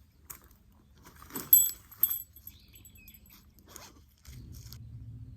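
Small metal objects jingling and clinking, with a short bright ring about a second and a half in and lighter ticks after. Near the end a steady low rumble of wind on the microphone sets in.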